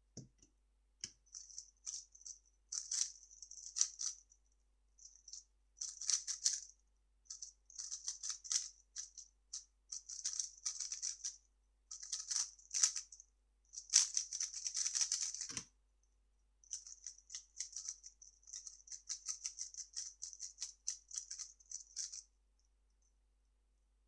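Plastic 3x3 speedcube being turned fast, a dense rattling click of layer turns coming in quick bursts with short gaps. A low knock comes at the start, and another just before a pause of about a second about two-thirds through.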